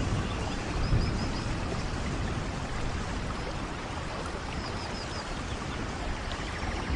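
Steady rain falling in a rainforest, an even hiss, with a low rumble about a second in. Two faint runs of short high chirps come through, about a second in and again near the five-second mark.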